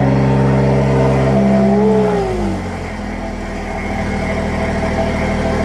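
Car engine running at raised revs, which drop about two seconds in before it settles into a steady idle.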